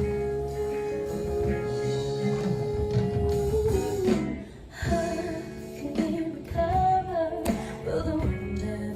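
Female singer performing a ballad live with a band and guitar. She holds one long note for about three and a half seconds, the music briefly drops away, then she sings on.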